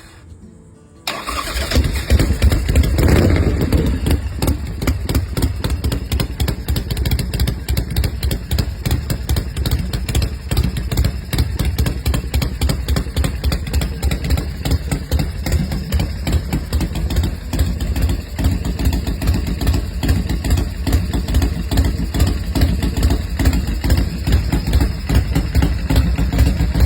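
1991 Harley-Davidson Softail Springer's Evolution V-twin engine coming to life about a second in. It is blipped up briefly, then settles into a steady, pulsing idle through its new exhaust.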